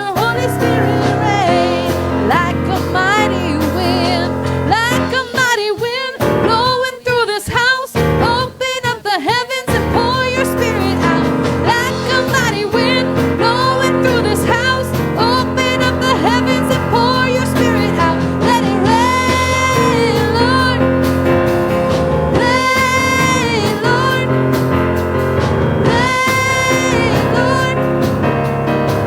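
Congregational worship music: voices singing a gospel song over a band with sustained keyboard chords.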